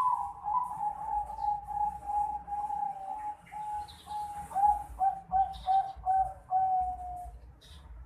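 Juvenile Bangkok-strain zebra dove (perkutut), about four and a half months old, cooing: a run of quick coo notes drifting slightly lower in pitch. About halfway through they break into short separate notes, and the run ends on one longer drawn-out note near the end.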